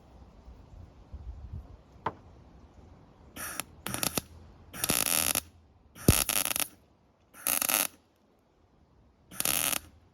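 MIG welder laying six short bursts of weld, each a crackling sizzle about half a second long, a second or two apart: tacking and welding steel legs onto a small metal sculpture.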